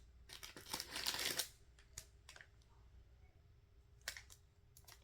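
Packaging crinkling in handling for about a second, followed by a few light clicks and taps of small items.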